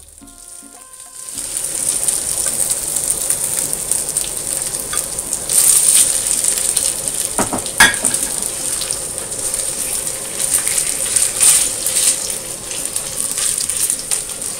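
Marinated chicken pieces sizzling loudly in hot oil in a wok, the sizzle starting about a second in as the chicken goes in. Tongs and a metal spatula scrape and click against the wok as the chicken is stir-fried, with a couple of sharp clicks a little past halfway.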